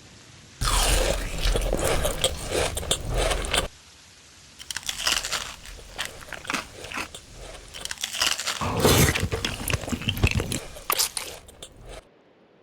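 A person biting into and chewing crunchy food: dense crackling crunches, with a short pause about four seconds in before the chewing resumes, stopping shortly before the end.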